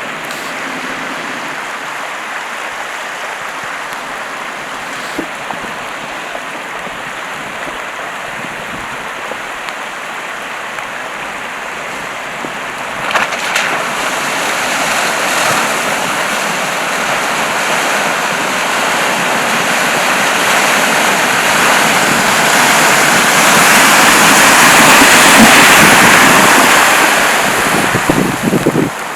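Rushing, splashing water of a small river crossing. About halfway through the noise jumps up suddenly and keeps building, loudest near the end.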